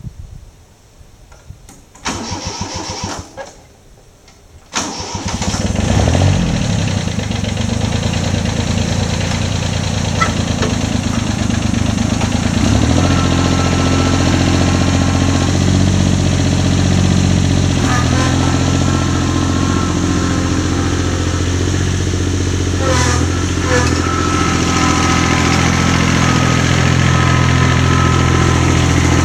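An engine is cranked briefly, then catches about five seconds in and keeps running steadily. Its note shifts a few times as it runs.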